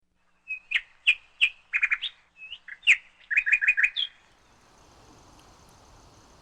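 Small bird calling: a run of sharp, high chirps and quick clusters of rapid notes, some rising at the end, stopping about four seconds in.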